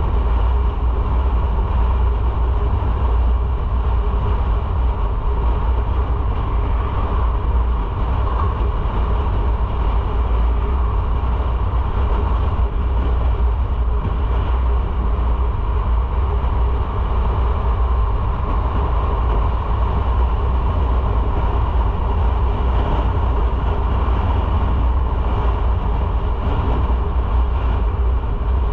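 Motorcycle on the move: steady, loud wind rumble over the microphone with engine and road noise underneath.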